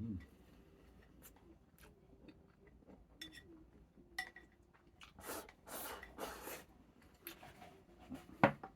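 Eating at a table: chopsticks and dishes clicking together, with short scraping noises and a sharp clack near the end.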